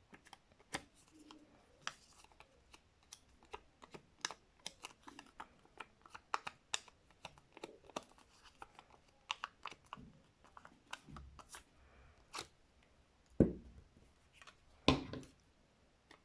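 Paper and card being handled and pressed down on a tabletop: many small scattered clicks and crinkles, with two louder knocks near the end.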